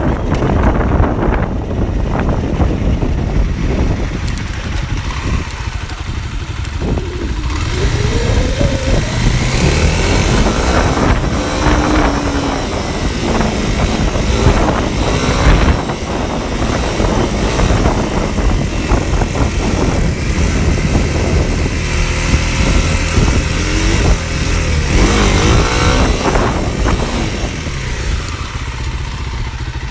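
Dual-sport motorcycle engine running while being ridden, heard from a handlebar-mounted phone, its pitch rising and falling several times as the rider revs and changes speed.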